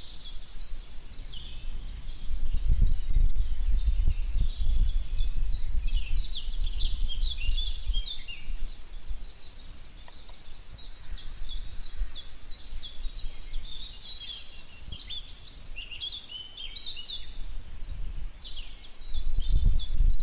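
Small birds chirping and trilling continuously, over a low rumble that swells in the first several seconds and again near the end.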